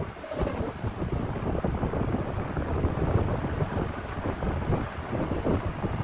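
Wood lathe spinning a large burl log while a turning tool cuts into it: a heavy, uneven rumble with rapid irregular scraping knocks.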